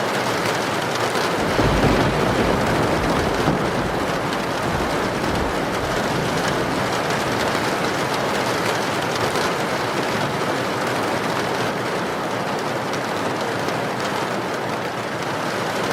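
Heavy rain falling in a steady, even hiss, with a low rumble swelling up about two seconds in and fading out a few seconds later.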